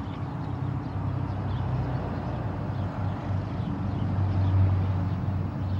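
A motor or engine running steadily with a low hum, a little louder from about four seconds in.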